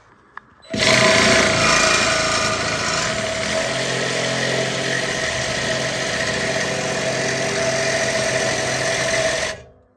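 Reciprocating saw (Sawzall) cutting through a steel exhaust pipe: a steady motor whine under the harsh rasp of the blade, starting suddenly about a second in and stopping abruptly near the end.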